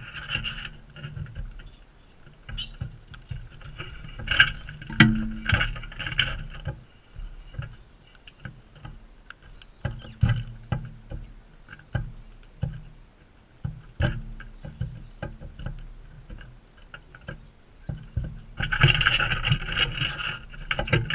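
Galahs at a seed feeder, with repeated knocks and taps of beaks and feet on the feeder close to the microphone and three bouts of harsh calls: near the start, about four seconds in, and again near the end.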